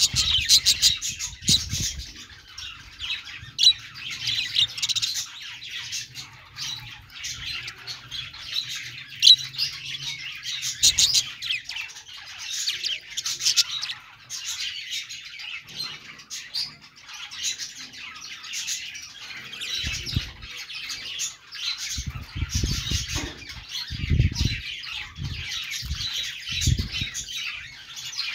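Several budgerigars chattering continuously, a dense mix of chirps, warbles and squawks. A few low thumps sound in the last third.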